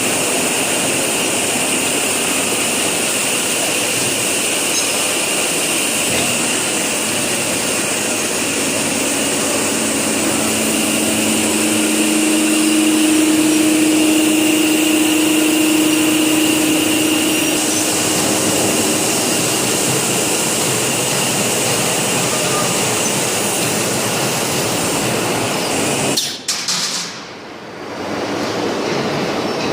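Steady hiss and hum of industrial machinery, with a low hum coming in for several seconds in the middle. The sound drops out briefly near the end.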